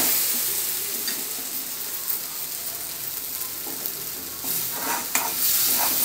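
Tomato and spice masala sizzling in oil in a wok while a spatula stirs and scrapes it, with a few louder scraping strokes about a second in and again past the middle. The masala is fully fried (bhuna).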